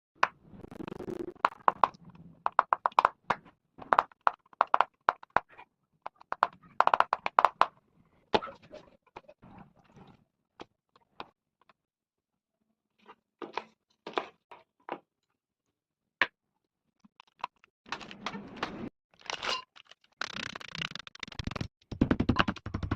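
Kitchen food preparation: runs of quick clicks, knocks and crunches, then a denser hissing, rustling stretch in the last few seconds.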